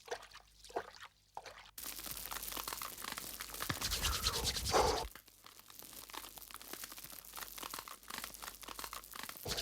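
Bonfire crackling with dense small pops and snaps, starting about two seconds in and swelling louder with a low rumble around four to five seconds in.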